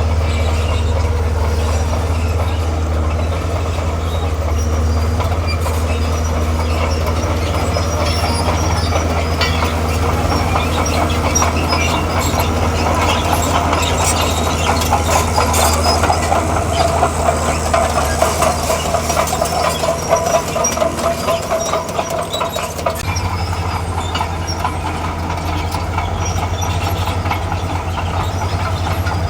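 Komatsu D41P crawler bulldozer working: its diesel engine runs steadily under a dense clanking of steel tracks, with a track squeal that swells in the middle and cuts off near the end.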